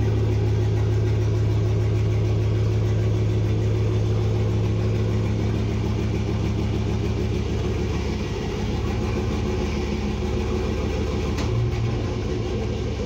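A vehicle engine idling steadily, a low even hum that eases slightly about eight seconds in.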